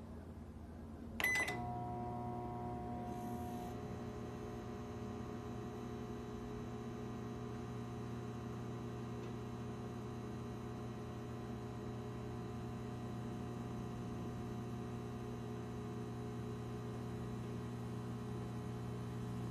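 Comfee EM720CPL-PMB countertop microwave oven: a short keypad beep about a second in, then the oven starts and runs with a steady electrical hum.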